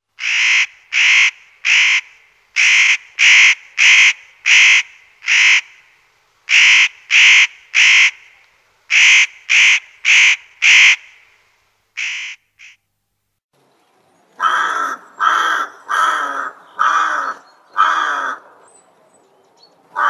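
Birds calling: loud, short calls in runs of three or four at about two a second, then after a short pause a lower series of six calls.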